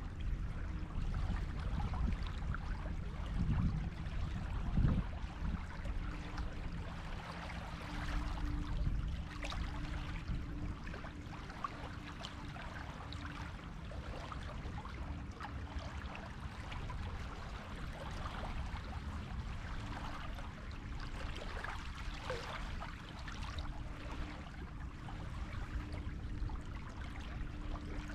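Sea waves washing and fizzing on a beach, rising and falling in a steady low rush. A faint steady hum comes and goes underneath.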